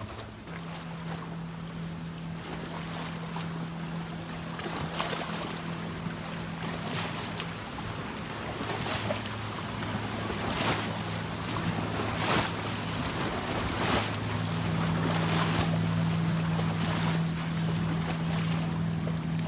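A steady low motor hum under rushing, wind-like noise, with irregular louder surges.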